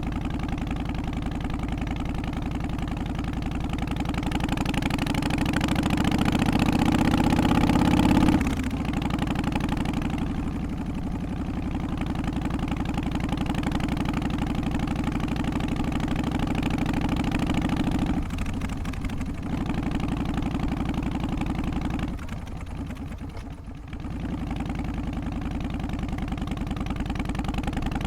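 Harley-Davidson FXST Softail's Twin Cam 88 V-twin engine running. It rises in revs and loudness for a few seconds, then drops off suddenly about eight seconds in. It carries on steadily after that, easing off briefly twice near the end.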